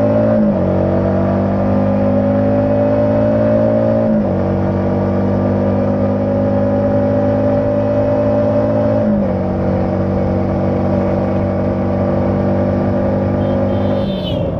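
Yamaha MT-15's 155 cc single-cylinder engine running on its stock exhaust while riding. Its pitch drops sharply about four times, a few seconds apart, and creeps up slowly between, as with upshifts through the gears.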